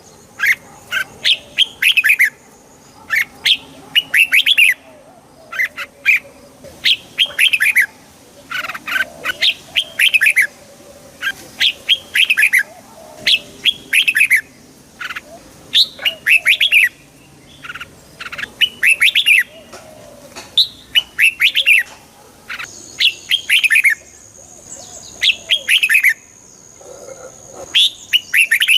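Red-whiskered bulbul singing: short, bright phrases of a few quick notes, repeated every second or two. A faint, thin, steady high tone joins about three-quarters of the way through.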